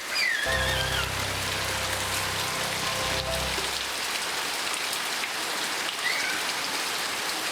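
Steady heavy rain falling, heard as an even hiss, with background music under it for the first few seconds.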